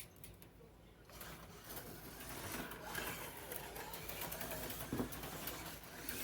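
HO slot car running on the track, its small electric motor buzzing for about five seconds, starting about a second in.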